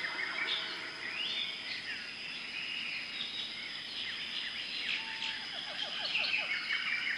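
Jungle ambience: a chorus of birds chirping and trilling over a steady high insect drone. A quick run of short falling calls comes lower down about five seconds in.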